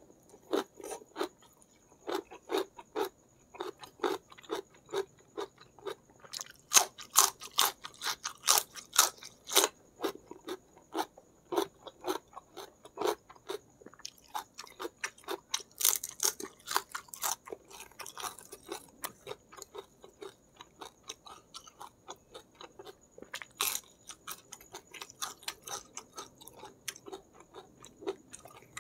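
Close-miked chewing of crunchy food in the mouth: a quick, uneven run of crisp crunches, busiest a few seconds in and again about halfway through.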